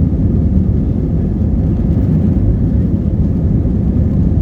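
Passenger jet airliner's engines giving a loud, steady low rumble around takeoff.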